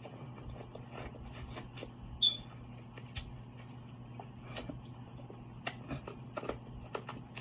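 Close-up eating sounds from a seafood mukbang: chewing and lip smacking, heard as irregular wet clicks, over a steady low hum.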